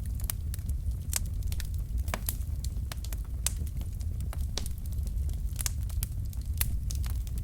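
Logs burning in a fireplace: a steady low rumble of flame with frequent sharp, irregular crackles and pops from the firewood.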